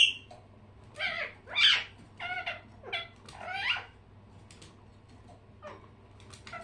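Pet birds calling: a sharp call at the start, then a run of loud calls that slide up and down in pitch, then a few faint short chirps near the end.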